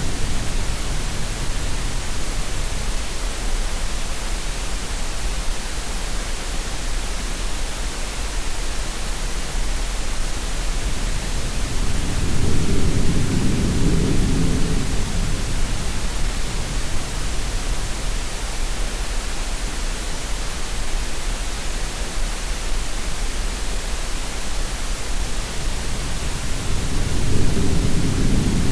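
Steady green-noise hiss with low sea-wave surges swelling and fading about every fifteen seconds: one dies away just after the start, another rises in the middle, and a third comes near the end.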